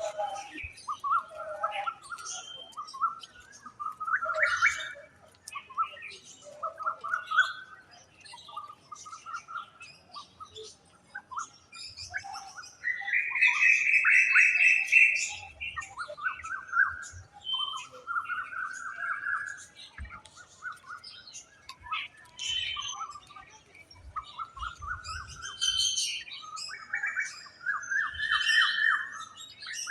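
Birds calling: one bird repeats short rising, rapidly trilled phrases every second or two, one louder and higher-pitched near the middle, while other birds add scattered high chirps.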